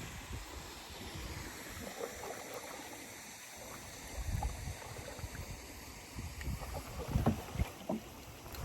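Canoe on a river: steady rush of water around the hull, with louder bursts of splashing about four seconds in and again near the end.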